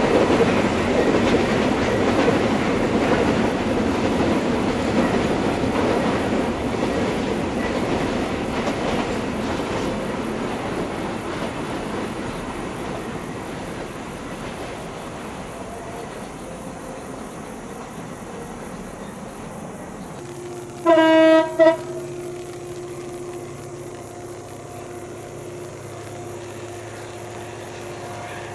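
Coal wagons of a long train rolling over the rails with a clickety-clack that fades away over about fifteen seconds. About 21 s in, a CC 205 diesel locomotive's air horn sounds one blast of about a second, then a short one, over the steady drone of the approaching locomotive's engine.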